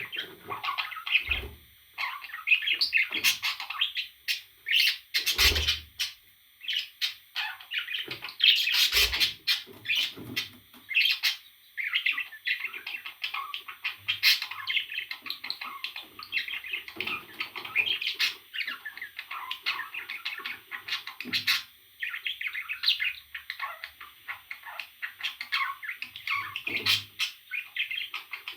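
A parrot chirping and chattering in quick, continuous bursts, with a few sharp knocks near the start.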